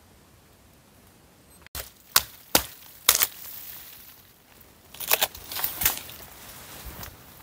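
Dry wood being chopped: three sharp, loud wooden hits about half a second apart, then a quicker run of hits about three seconds later.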